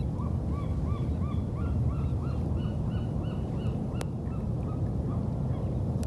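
A bird calling a run of short arched notes, about three a second for some five seconds, over the steady low rumble of a boat. A single sharp click about four seconds in.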